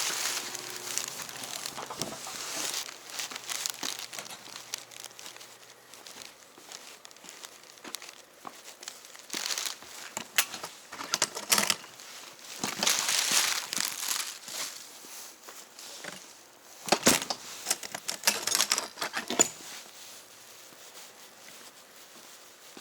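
Irregular rustling and crinkling handling noise in bursts, with a few sharp clicks near the middle, dying down near the end.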